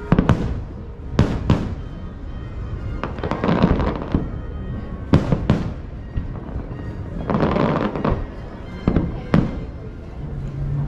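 Aerial fireworks: shells bursting with sharp booms, mostly in pairs about a third of a second apart, and spells of dense crackling about three to four seconds in and again around seven to eight seconds.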